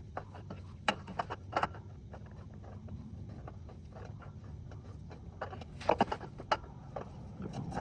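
Scattered light clicks and knocks of hands handling a new oil filter and threading it onto the engine by hand, with a pair about a second in and a small cluster near the end.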